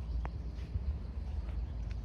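Outdoor nature ambience: a steady low rumble with a couple of brief bird chirps, the clearest about a quarter second in.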